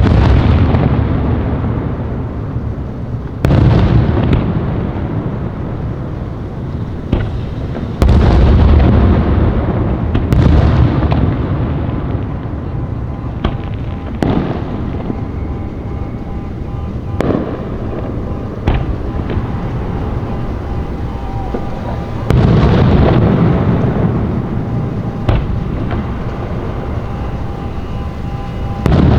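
Aerial fireworks going off, about six heavy booms each followed by a long rolling rumble, with lighter sharp cracks between them.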